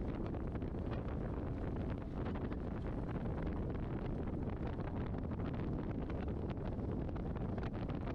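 Wind buffeting the microphone: a steady low rumble with frequent brief crackles.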